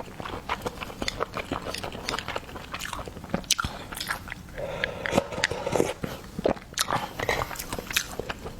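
A person chewing and biting seafood close to the microphone: wet mouth clicks and crunches following each other irregularly, busiest around the middle.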